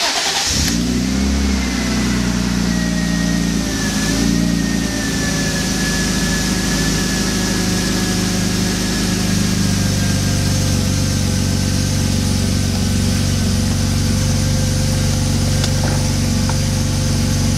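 BMW E36's engine starting with a brief crank, catching at once and settling into a steady idle, heard from inside the cabin. A faint high whine sinks slowly in pitch over the first several seconds.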